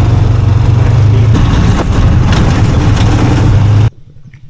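A motor vehicle's engine running loud and steady, a low rumble with a rushing noise over it. It cuts off abruptly near the end.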